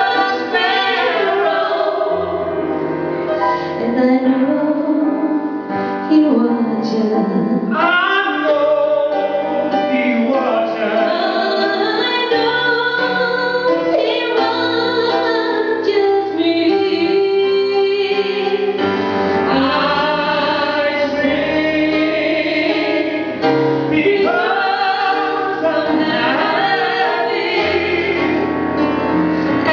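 A female gospel singer sings in long runs that slide up and down in pitch, with choir and instrumental backing and held bass notes beneath.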